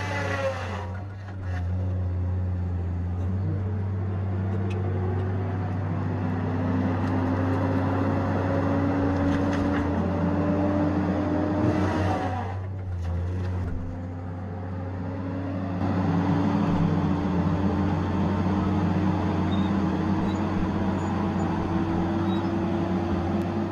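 Tigercat 870C feller buncher running under load: a steady diesel engine hum with a hydraulic whine that slowly rises in pitch, easing off briefly about a second in and again about halfway through.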